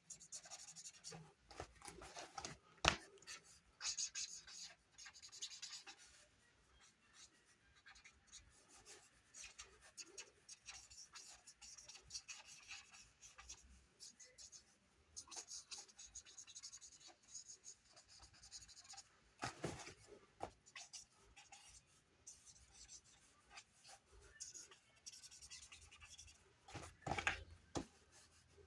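Pen scratching on paper in short, faint, intermittent strokes while ink drawing, with a few sharper knocks, one about three seconds in and more near the end.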